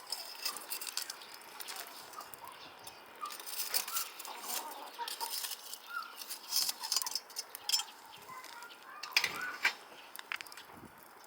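Chickens clucking in short scattered calls, over the crackle and pops of a wood fire, with a louder knock about nine seconds in.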